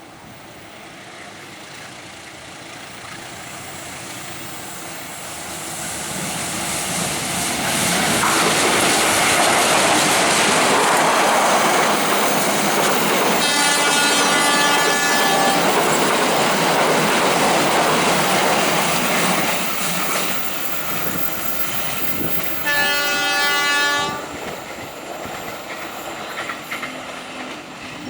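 A train approaches and passes close by, its noise building for several seconds, staying loud, then fading. Its horn sounds twice: a blast of about two seconds while it passes, then a shorter one of just over a second about nine seconds later.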